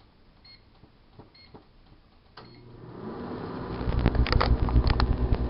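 GE Dual Wave microwave oven: two short keypad beeps, then a click as it starts and a steady low hum that builds over a second or so and keeps running. A few sharp crackles sound over the hum near the end.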